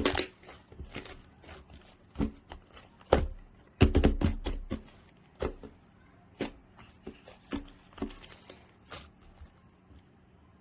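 Soft clay-mixed slime being squished and pressed by hand, giving irregular sticky clicks and pops, with a quick cluster of them about four seconds in.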